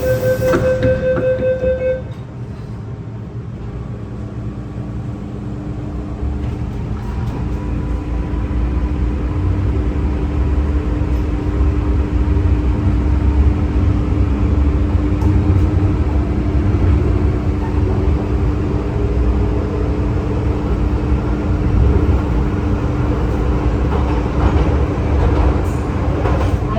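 MTR M-Train: a steady electronic door-closing warning tone cuts off about two seconds in. Then the train's running noise, a low rumble with a faint traction-motor whine, grows steadily louder over the next ten seconds or so as the train accelerates, then holds steady.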